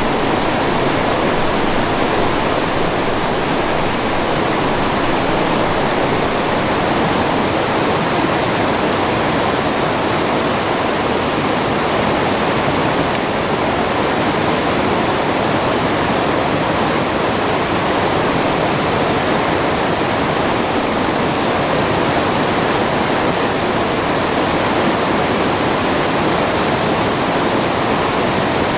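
Mountain stream water rushing in a steady, unbroken noise.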